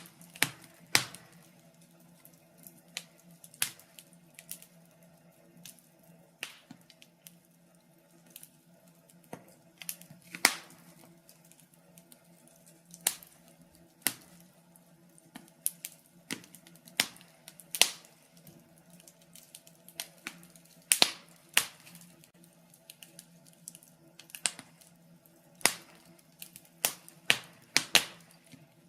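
Wood logs burning in a fireplace, crackling with irregular sharp pops and snaps, some in quick clusters, over a faint steady hum.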